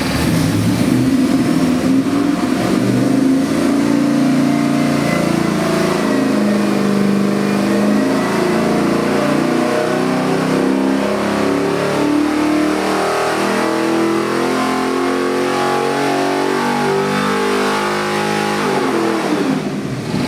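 LS7 700 hp V8 crate engine running and being revved repeatedly, its pitch rising and falling throughout, then dropping back near the end.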